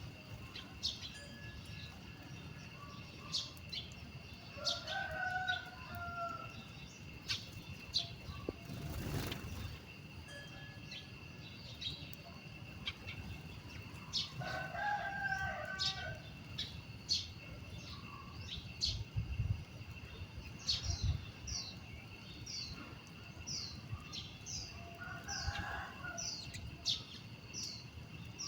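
A rooster crowing three times, each crow about a second and a half long, over many small birds chirping, with a quick run of chirps near the end. A steady faint high tone lies underneath.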